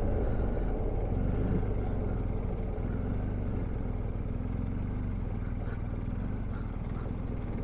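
Motorcycle engine running steadily on the move over a poor, broken road, with road and wind noise.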